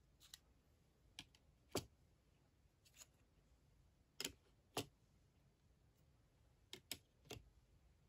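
Hard clear-acrylic figure sticks clicking lightly against one another as they are laid down one by one, about nine short, sharp clicks at uneven intervals.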